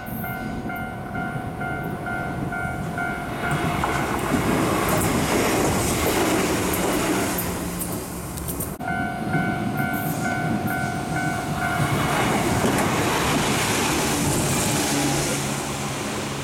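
A Japanese level-crossing alarm rings in a steady pulsed ding, a little over twice a second, then a Shizuoka Railway electric commuter train passes with a rushing clatter of wheels and motors. The alarm abruptly starts again and a second rushing pass follows, with a low motor hum near the end.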